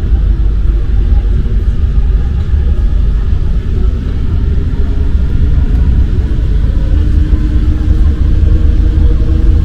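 A rubber-tyred MP 05 Paris Métro train running along the line, with a loud, steady low rumble and a faint steady hum joining about seven seconds in.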